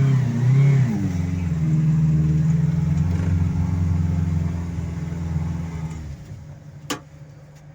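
Toyota 1NZ-FE 1.5-litre four-cylinder petrol engine of a tracked-style all-terrain vehicle working under load, revving up and down in the first second and then held steady. About six seconds in it eases off to a low idle, and a single sharp knock follows a second later.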